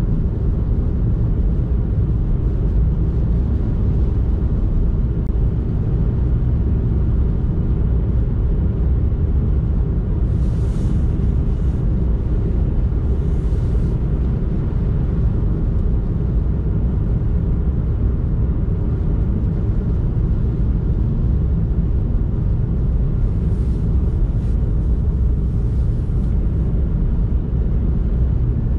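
Steady low rumble of a car driving on a snowy road, engine and tyre noise heard from the car. Twice, a brief hiss rises over it.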